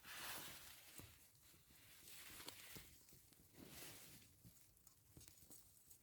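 Faint wind gusting against a nylon tarp shelter: soft swells of rushing noise rise and fall every second or two, with light ticks and rustles of the fabric.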